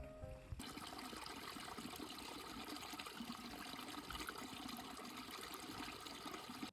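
Steady rushing noise like running water, with faint scattered ticks, starting about half a second in.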